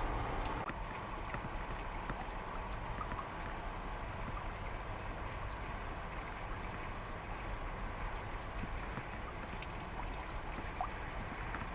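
Steady rain hiss heard from inside a parked car, with a low rumble and scattered sharp drop ticks.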